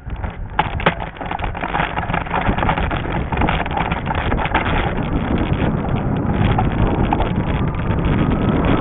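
Wind buffeting the microphone while riding a fat-tire e-bike over a trail, with a steady rumble and a few sharp rattles or knocks just before the first second.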